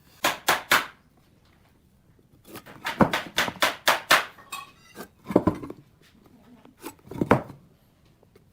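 Sharp knocks and taps on wood in irregular groups: three quick strokes, then a run of about eight, then a few scattered knocks.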